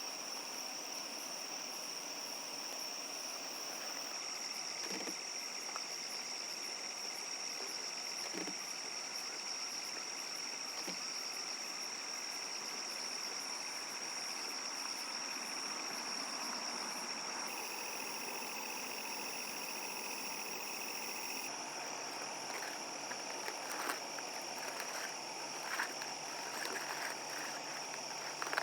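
Night insects, crickets or similar, chirring in a continuous high trill over a soft background hiss, with a second, lower insect trill joining for a few seconds in the middle. Scattered short clicks near the end.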